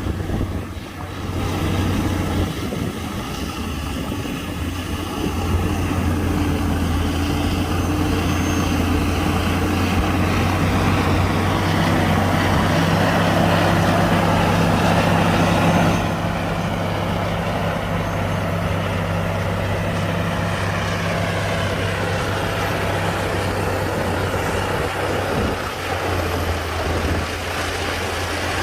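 Heavy diesel earthmoving machinery working: a deep, steady engine note that builds up over the first half and eases back a little past halfway.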